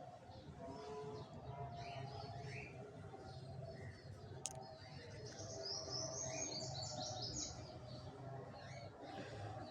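Small birds chirping, short calls coming from several directions, with a quick run of rapid notes about six to seven seconds in. A single sharp click about four and a half seconds in.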